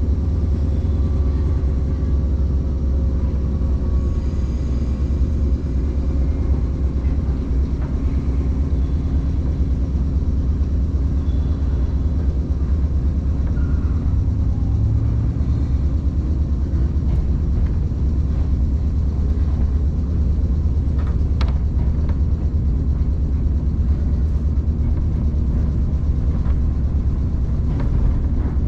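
Electric commuter train running, heard inside the carriage: a steady low rumble of wheels and track, with a faint whine fading in the first few seconds and a few short clicks about two-thirds of the way through.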